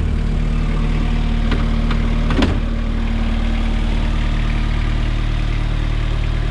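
Kubota four-cylinder diesel engine of a Toro Reelmaster 5410 mower idling steadily, with a single short knock about two and a half seconds in.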